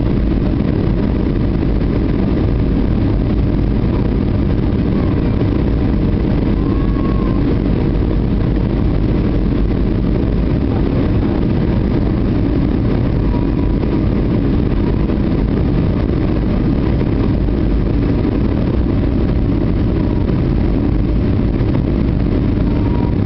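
Steady roar of engine and airflow noise inside an Airbus A320 passenger cabin.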